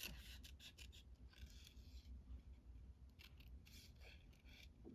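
Faint, irregular snips of small scissors cutting through paper.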